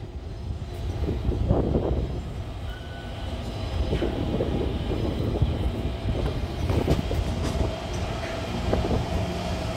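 Metro electric train running on track: a continuous rumble with occasional wheel knocks, and in the second half a steady whine from its electrical equipment.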